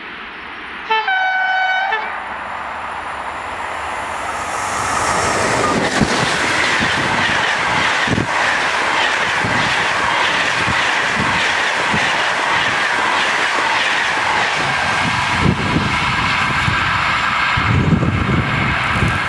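Passenger train sounds its horn in one blast about a second long, about a second in. It then approaches and passes close by, loud and steady, with its wheels clacking over the rail joints as the coaches go by.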